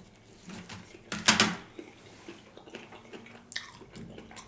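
Chopsticks clicking and tapping against a sushi container during eating, with one louder clatter a little over a second in.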